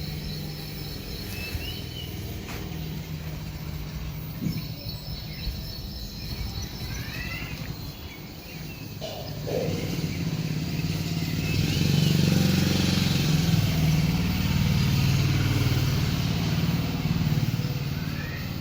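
A motorcycle engine running steadily, growing louder in the second half and easing off near the end, with a few birds chirping.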